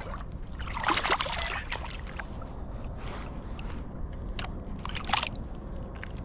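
River water sloshing and splashing in irregular bursts as someone wades through the shallows, over a steady low rumble.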